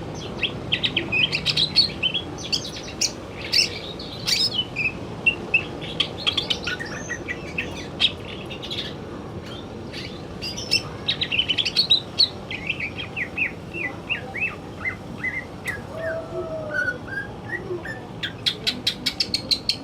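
Male cucak ijo (greater green leafbird) singing: a long, unbroken run of fast, varied chirps and whistles, with a burst of rapid sharp clicking notes near the end.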